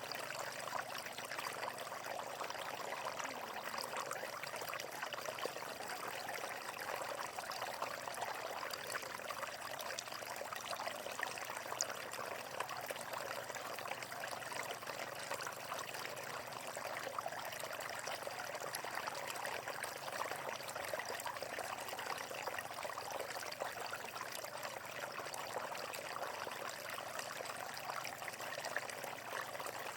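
Running water in a natural stream, flowing and splashing steadily with an even, unbroken trickle.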